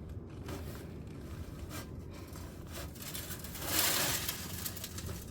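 Small concrete mixer running steadily with a low rumble, and a brief loud hiss about four seconds in.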